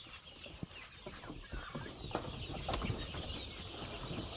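A flock of chickens clucking softly, with many small scattered clicks and taps.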